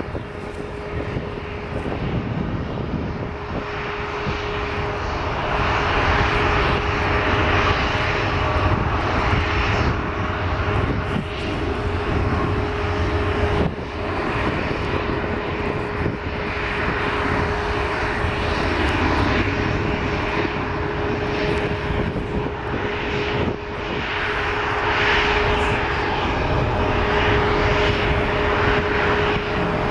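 Jet airliner engines running: a wide rushing noise that builds over the first several seconds and then holds, with a steady hum underneath.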